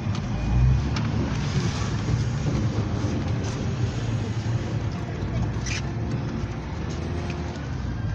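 Mercedes-Benz Sprinter minibus heard from inside the passenger cabin while driving: steady low engine and road rumble, with a few short clicks and rattles.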